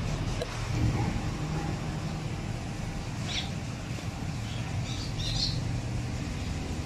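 Steady low background rumble with a few short, high bird chirps, one about three seconds in and a small cluster around five seconds.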